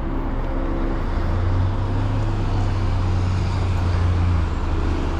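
Steady road traffic noise from a busy highway, with a low engine hum coming in about a second in and fading near the end as a vehicle passes.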